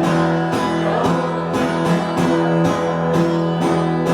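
Guitar strummed in a steady rhythm over held chord notes, an instrumental passage of the song with no singing.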